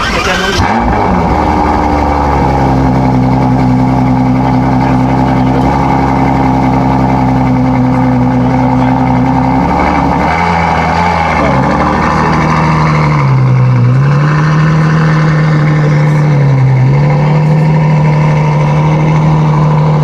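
Sports car engine running loudly and steadily after a sharp bark right at the start, settling to a steady idle within a couple of seconds; its pitch dips briefly about three times in the second half.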